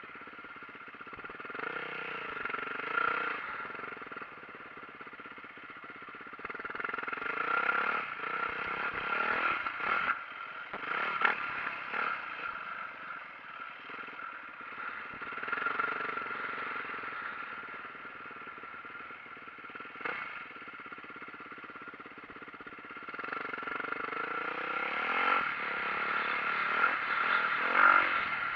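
2004 Yamaha YZ450F four-stroke 450 cc single-cylinder dirt-bike engine, revving up and falling back again and again as the bike is ridden. It has a few sharp knocks and clatter about ten to twelve seconds in, and grows louder near the end.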